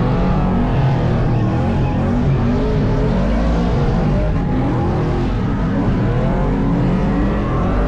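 Burnout truck's engine revving up and down again and again, loud, as it is driven hard through drifts.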